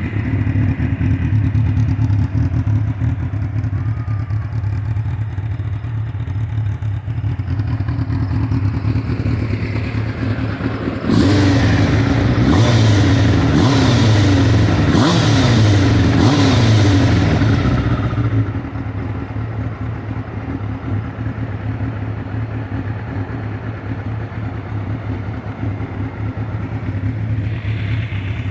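A freshly tuned engine idling steadily; about eleven seconds in it is revved up and down several times for around seven seconds, then settles back to idle.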